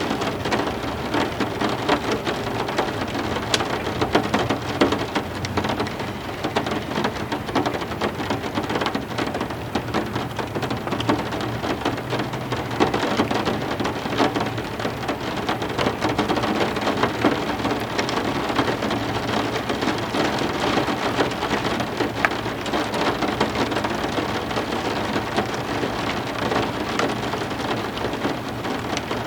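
Heavy rain falling steadily, a dense patter of drops striking hard surfaces.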